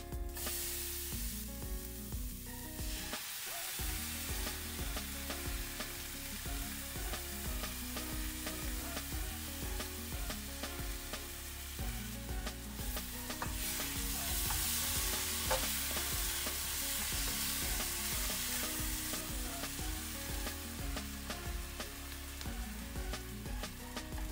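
Ground pork, garlic and chillies sizzling in hot oil in a nonstick wok, with a spatula clicking and scraping against the pan as the meat is stirred and broken up. The sizzling is louder in the middle stretch.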